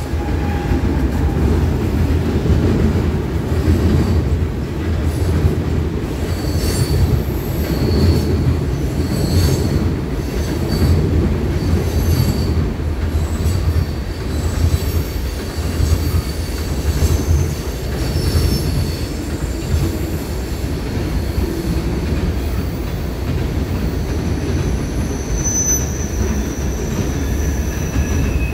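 Freight train rolling over a railroad bridge overhead: a steady low rumble from the passing cars, with high-pitched wheel squeals that come and go.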